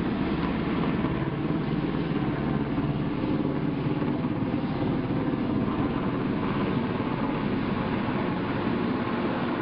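Helicopter flying close by: a loud, steady rotor and engine noise.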